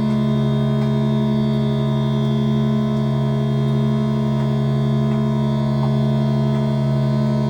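Modular synthesizer playing a steady electronic drone of several held tones, the lowest strongest, with one middle tone wavering rapidly and a few faint ticks.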